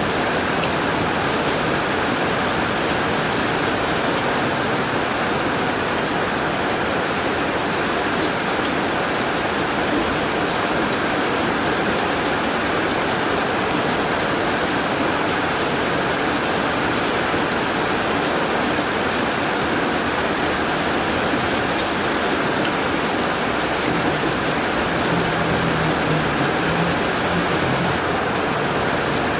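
Rain falling steadily on a tin roof: a dense, even hiss with scattered sharp ticks of single drops.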